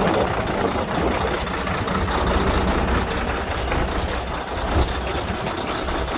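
Diesel engine of a 2006 Volvo semi truck running steadily as the truck sets off. The engine has a bad miss, which the driver puts down to a faulty injector or a wiring issue.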